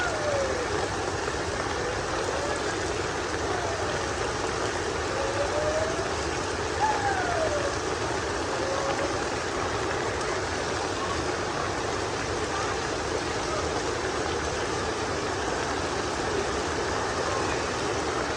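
Heavy rain falling, a steady hiss with no break.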